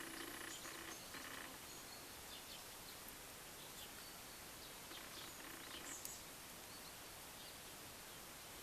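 Faint outdoor ambience with a steady hiss and scattered small bird chirps. A short call sounds just after the start and again about five seconds in.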